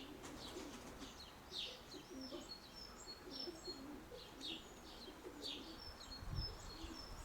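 Domestic pigeons cooing softly, with short high chirps of small birds repeating over them.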